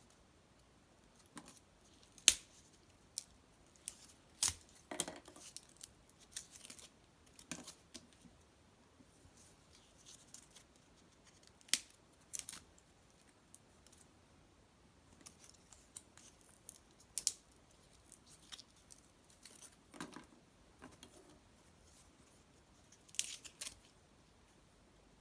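Wood fire in an irori hearth crackling, with irregular sharp pops and snaps, a few much louder than the rest.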